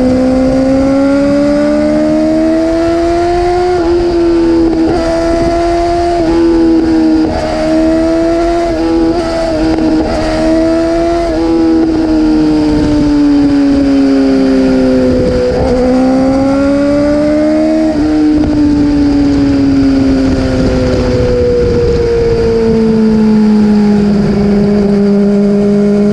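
Yamaha R6 sport bike's inline-four engine running hard at high revs. The pitch climbs and falls, with several sudden drops in pitch along the way, and it settles lower near the end.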